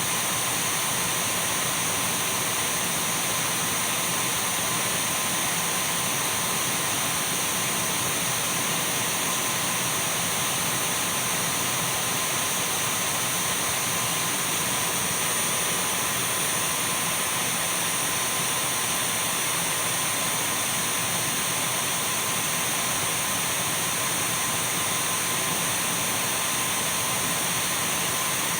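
Dyson V12 cordless stick vacuum cleaner running continuously: an even rush of air with a steady high motor whine, unchanging in pitch and level.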